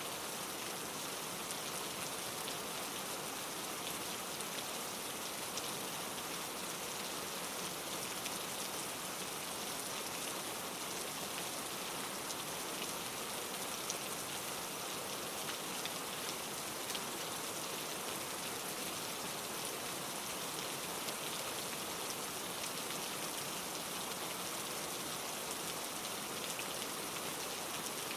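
Steady rain with many small drop ticks, falling on leaves and foliage.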